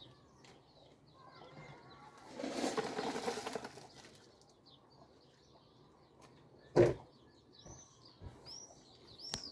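Birds chirping, with a burst of rustling noise lasting about a second and a half, starting about two seconds in. A single sharp knock comes near seven seconds, the loudest sound, and a second click comes near the end.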